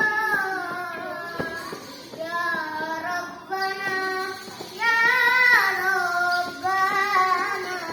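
A child singing solo in long held notes that bend and glide between pitches, with ornaments on the sustained notes.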